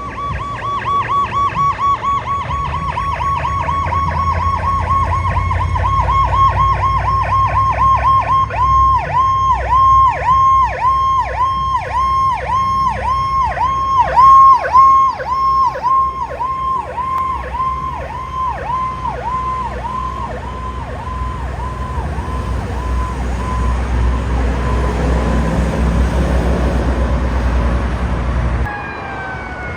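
Responding emergency vehicle's electronic siren in a fast yelp, each short whoop about two to three a second, loudest about halfway and then fading away. A heavy vehicle's engine rumble grows louder after the siren fades and cuts off abruptly near the end.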